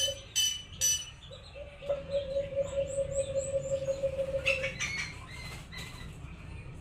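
Dove (alimokon) calling: a low, rapidly pulsing coo, about ten pulses a second, heard briefly at the start and again for about three seconds from two seconds in, mixed with sharp high chirps from other birds.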